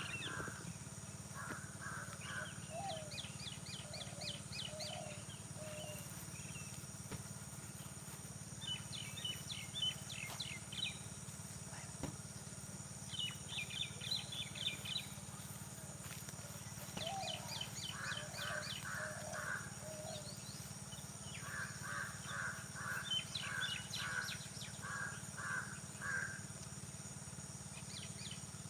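Rural morning field ambience: several birds calling. Runs of quick, high chirps recur every few seconds, alternating with short runs of harsher mid-pitched calls that come thicker in the second half. Steady background hum and high hiss throughout.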